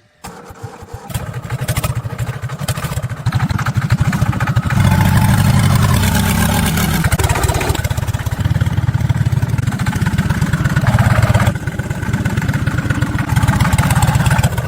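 Restored tractor engine starting up and running with a rapid, even firing beat. It gets louder about five seconds in and eases back briefly near the end.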